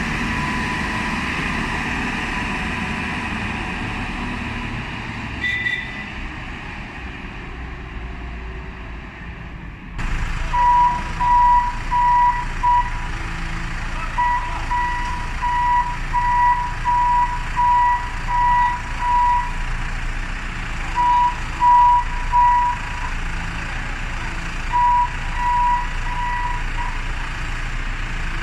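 Heavy diesel machinery, such as a backhoe loader or truck engine, running steadily. About ten seconds in, the sound changes abruptly and a reversing alarm starts beeping about twice a second over the engine, in several runs with short pauses as the vehicle backs up in stages.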